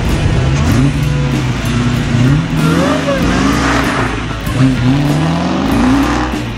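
Supercharged 6.2-litre Hemi V8 of a 2015 Dodge Challenger SRT Hellcat accelerating hard, its pitch climbing several times in a row as it pulls up through the revs.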